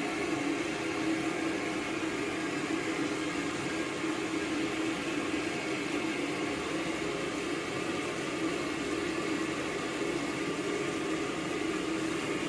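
Floured chicken pieces deep-frying in a wok full of hot oil, sizzling with a steady hiss.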